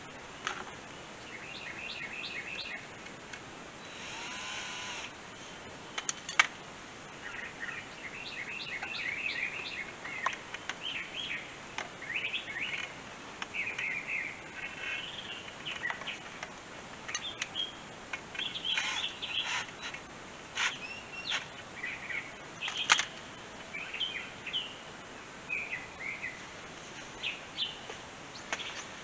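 Birds chirping and calling repeatedly, short high calls one after another. A brief rush of noise sounds about four seconds in, and a few sharp clicks sound along the way.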